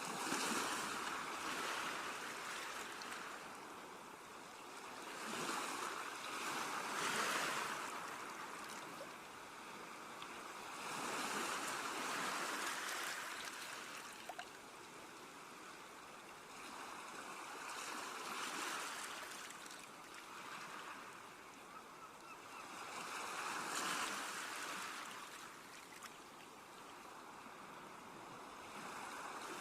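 Sea waves breaking and washing on a shore, the rush swelling and fading about every five to six seconds.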